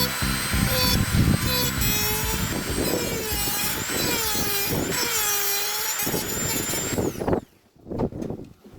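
Small power tool running, its whine dipping and rising in pitch under load, then winding down about seven seconds in, followed by a few light clicks.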